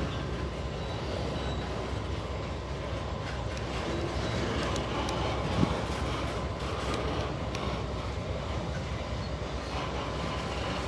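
Empty freight wagons of a pulp train rolling past with a steady rumble of wheels on rail and scattered clicks, with one sharp clank about halfway through.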